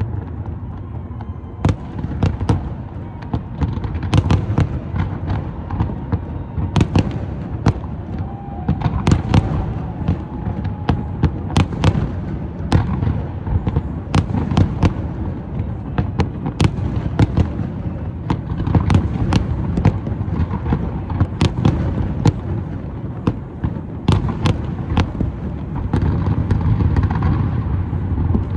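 Aerial fireworks display: a continuous barrage of shells bursting, sharp bangs and crackles coming several times a second over a steady low rumble and hiss.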